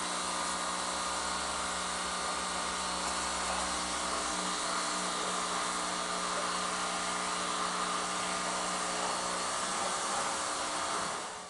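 Pressure washer running and spraying: a steady motor hum with a broad hiss of the water jet. A deep low hum drops out about four seconds in, and the sound fades away at the very end.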